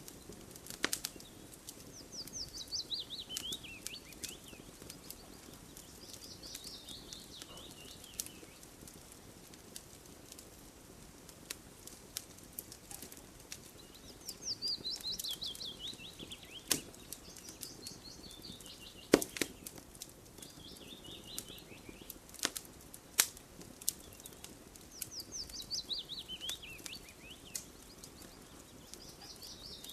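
Wood fire crackling with scattered sharp pops, while a songbird sings several times, each time a quick trill of about two seconds that slides downward in pitch.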